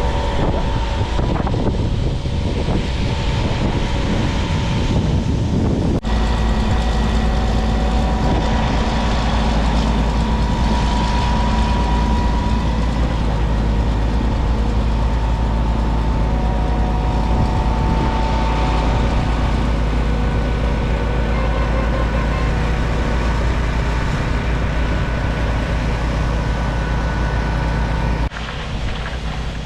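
Concrete pump truck's diesel engine and hydraulics running steadily under load, with steady whining tones over a constant drone. Wind buffets the microphone as a heavy low rumble. The sound changes abruptly about six seconds in and again near the end.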